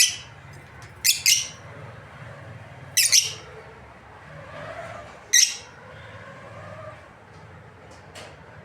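Lovebirds giving short, shrill chirps, a few seconds apart and sometimes two in quick succession, with a fainter chirp near the end.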